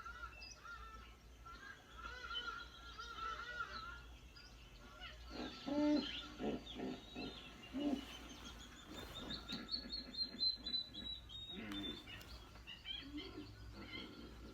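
Wetland birds chirping and calling, with a few short low calls about halfway through and a long run of notes climbing slowly in pitch after that.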